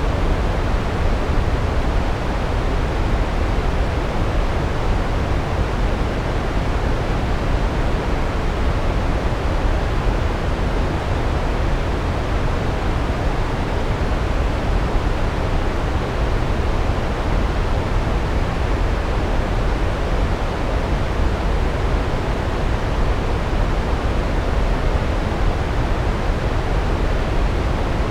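Large waterfall: a steady, unbroken rush of falling water, heaviest in the low end.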